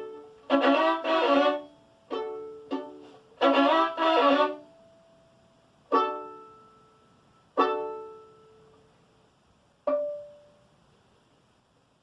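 Violin playing the closing bars of a tune: quick phrases, then three separate strong notes a couple of seconds apart, each ringing and fading away, the last about ten seconds in.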